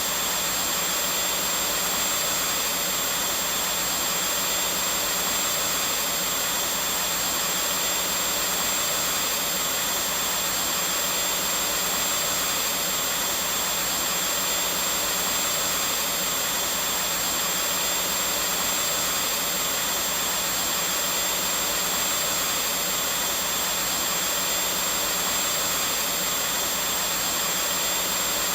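Vacuum cleaner running steadily and unchanging: an even rush of air with a thin, high steady whine on top.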